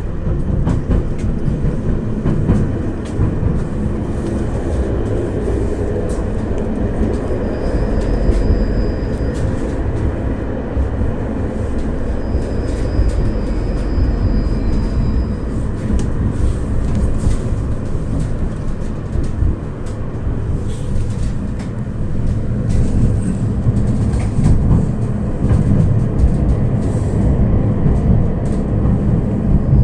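Tram running along its track, heard from inside the car: a steady rumble of wheels and motors on the rails with scattered clicks over the rail joints. A faint high whine comes in twice.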